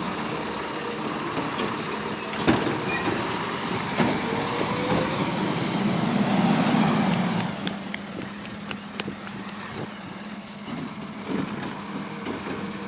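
Garbage truck running, with clanks and hisses as it works. A steady low hum settles in about halfway, with scattered knocks after it.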